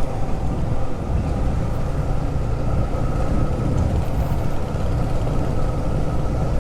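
Yamaha MT-15 motorcycle's single-cylinder engine running at a steady speed while riding, with a constant rush of noise.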